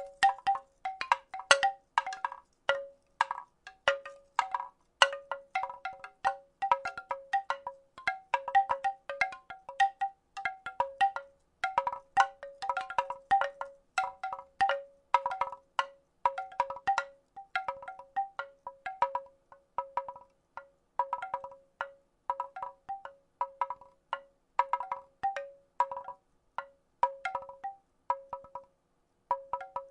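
Wooden rattle shaken continuously, giving irregular clusters of hollow clacks. Each clack has a short pitched ring, and several come each second.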